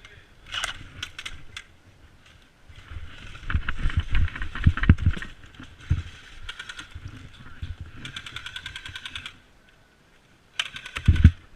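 Airsoft gun firing: several quick bursts of rapid, even clicks, the longest about eight seconds in and another just before the end, with heavier low knocks of handling and movement around four to five seconds in.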